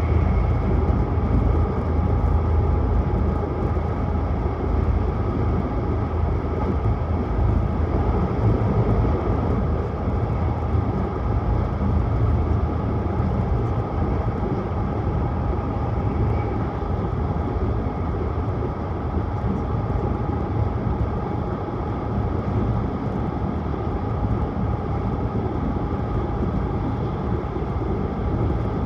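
Steady running noise inside a Tohoku Shinkansen train at speed: a deep rumble with a rushing hiss, unchanging throughout.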